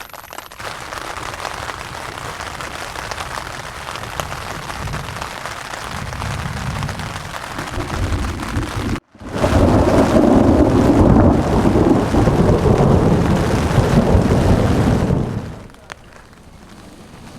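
Rain falling, heard as a steady rushing hiss in two stretches split by a cut; the second stretch is much louder and heavier before it drops back to a faint patter near the end.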